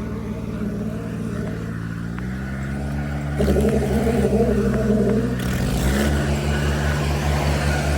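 Diesel tractor engines labouring under heavy load in a chained tractor tug-of-war. The revs rise about two seconds in, and the engine gets louder from about three and a half seconds.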